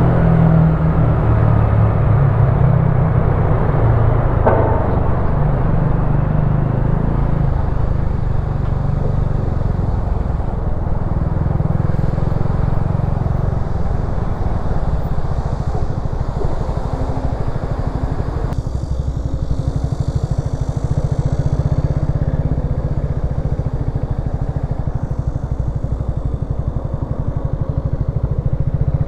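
Wolf Classic 125cc motorcycle engine running during a ride, its pitch shifting over the first several seconds, then running steadily at a low, even beat.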